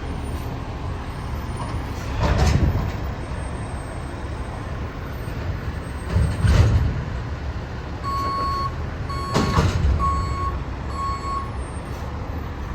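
Diesel engine of an Autocar Xpeditor garbage truck running loudly, with three short louder surges. From about eight seconds in, the truck's reversing alarm beeps four times.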